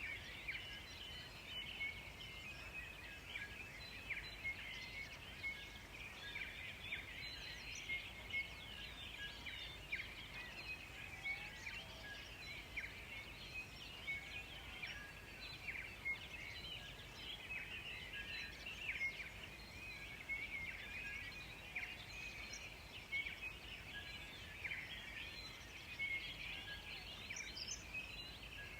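A chorus of many birds chirping in the forest, with dense overlapping short high calls that carry on steadily.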